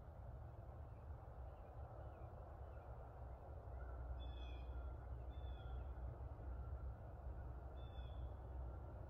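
Quiet woodland ambience: a steady low rumble, with a bird giving short calls, a few notes about four to five seconds in and another near the end.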